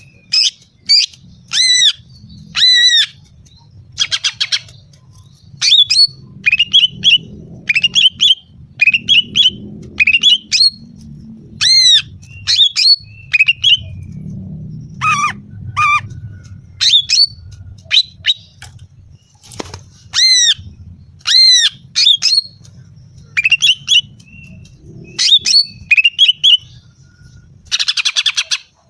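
Female greater green leafbird (cucak ijo) calling: short, sharp, downward-sliding notes, singly or in quick twos and threes about every second, over a faint low rumble. This is the female's call, used as a lure to rouse male cucak ijo.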